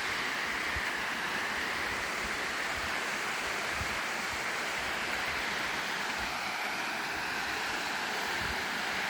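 Steady rush of falling water from a waterfall or stream, an even noise with no breaks.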